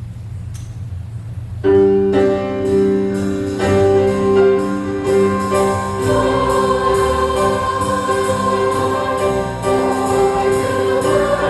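Church choir and band start a jazz-style song suddenly, a little under two seconds in, singing sustained chords over a steady beat. Before that there is only a low hum.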